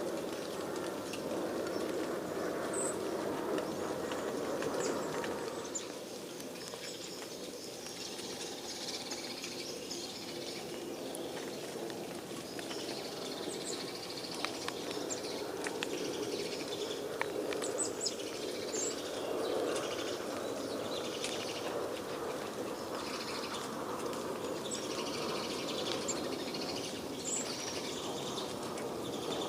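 Birds chirping, with short high calls scattered throughout, over a steady background noise.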